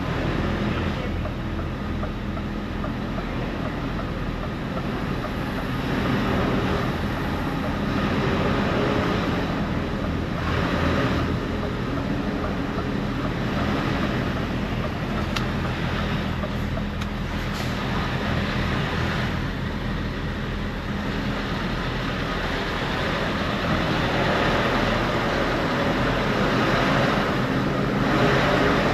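A large engine running steadily with a constant low hum, under a broad rumble of wind and road or water noise.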